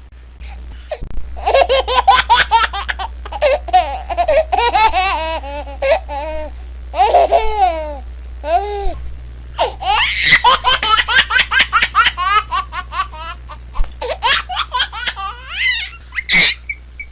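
Baby laughing in rapid runs of short, breathy giggles, with a few longer drawn-out calls near the middle, over a steady low hum.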